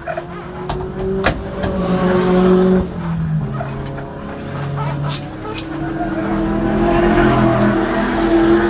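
Race car engines running and passing, pitch shifting and growing louder near the end, with several sharp clicks and knocks close by.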